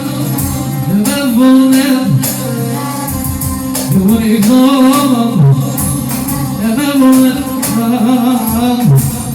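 Music with singing: a solo voice sings long, wavering held phrases with brief breaks between them, over a steady held accompaniment.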